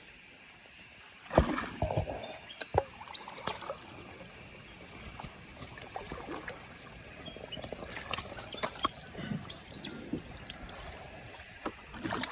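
Knocks on a kayak and splashing water while a hooked fish is played on rod and line. The loudest knock comes about a second and a half in, followed by a few smaller knocks and scattered clicks and splashes.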